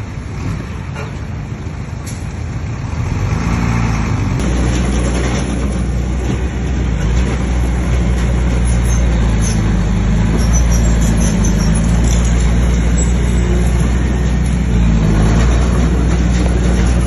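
Bulldozer's diesel engine working, its note climbing and growing louder about three seconds in, then running steadily at high revs.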